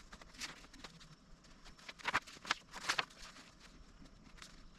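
Faint handling noise of paper documentation being leafed through: a few short rustles about two to three seconds in.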